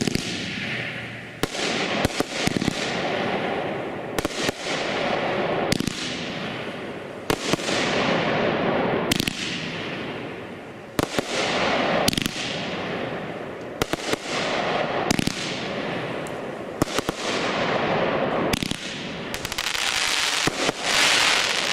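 A Shogun multi-shot consumer fireworks cake firing shot after shot, about one every one to two seconds. Each shot is a sharp bang followed by a fading hiss, and the last few shots come quicker near the end.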